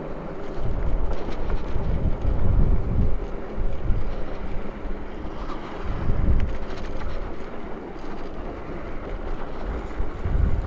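Strong wind buffeting the microphone in gusts, over a steady rumble of an electric bike rolling along a dirt trail.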